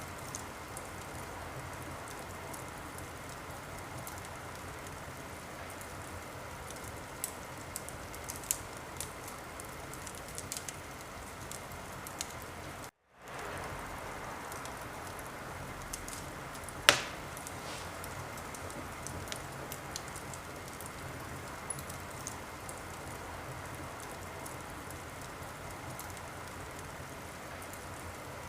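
Wood fire crackling in a fireplace: a steady hiss with scattered small crackles and one loud pop about 17 seconds in. The sound cuts out completely for a moment about 13 seconds in.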